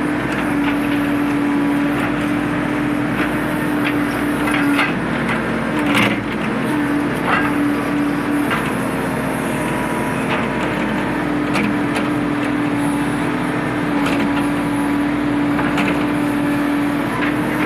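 L&T Case 770 backhoe loader's diesel engine running steadily while it loads a tractor trailer, with scattered knocks and clatter; the loudest knock comes about six seconds in.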